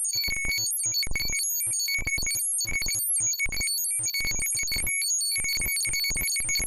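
Electronic bleeps and chirps from a homemade robot sound-effects module: high, steady tones cutting in and out rapidly and irregularly over choppy low pulses, like a sci-fi computer.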